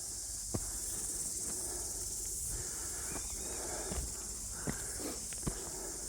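Footsteps of a person walking on a bush track, landing about once a second, over a steady high-pitched hiss of insects.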